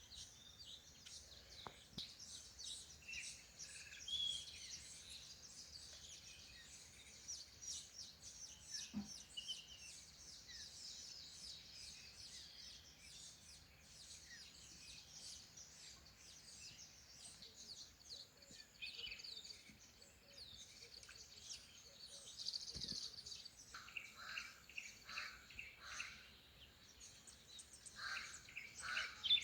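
Birds chirping and singing, a dense chorus of short high-pitched notes. From about two-thirds of the way in, another bird joins with a lower call repeated in a quick even series.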